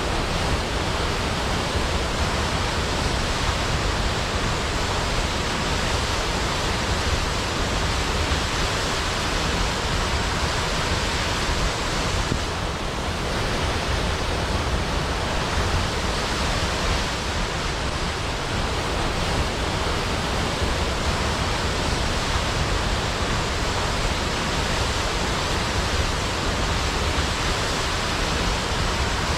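Large waterfall cascading down a cliff into a pool: a steady, unbroken rush of falling water.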